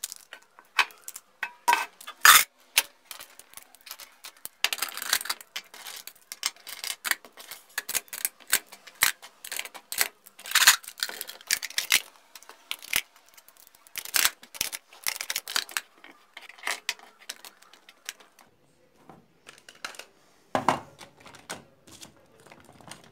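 Plastic pens and markers clicking and clattering against each other as they are picked up and put away by hand, in quick irregular bursts, with a pause and a duller knock near the end.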